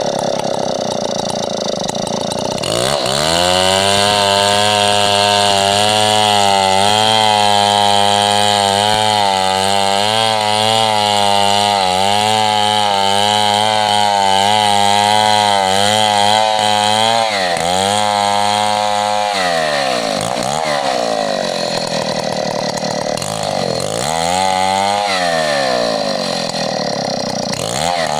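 Stihl MS 070 two-stroke chainsaw cutting coconut wood. About three seconds in, the engine drops from high revs to a lower, steady pitch under the load of the cut and holds there, wavering, until about seventeen seconds in. Then the throttle is revved up and let off several times, the pitch sweeping up and down.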